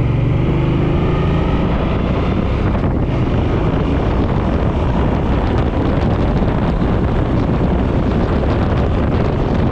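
Suzuki M50 motorcycle's V-twin engine running while riding, its steady engine note fading after about a second and a half under loud wind rushing over the microphone.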